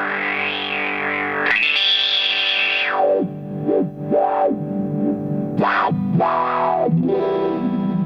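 Distorted electric guitar played through a Madbean Drunken Dragon overdrive pedal, a Lovepedal Eternity clone: a held chord rings on while its tone sweeps up and down several times.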